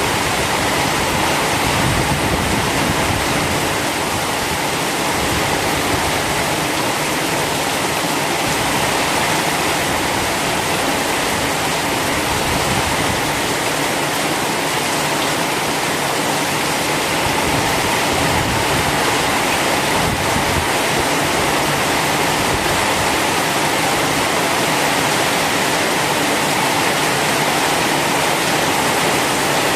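Heavy rain falling steadily, a dense, even hiss of water with no breaks.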